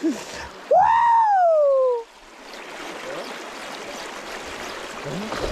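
A man's long excited whoop that rises and then slides down in pitch, followed by a steady rushing hiss of river water.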